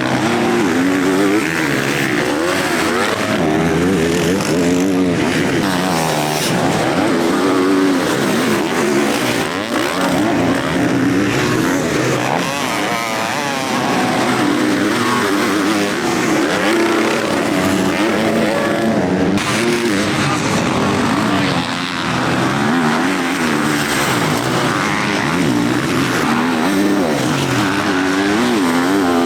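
Several motocross bikes racing, their engines revving up and down through the gears with overlapping engine notes.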